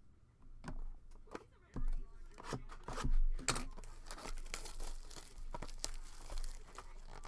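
Trading-card packaging being torn open and crinkled by hand: a run of sharp crackles, then a longer stretch of dense crinkling.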